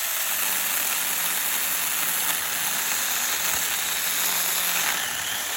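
Battery-powered SAKER mini chainsaw running steadily, its chain sawing through the trunk of a skinny tree.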